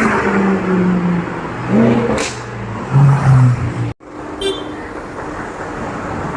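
Street traffic with car engines running and steady held tones, including horn honks.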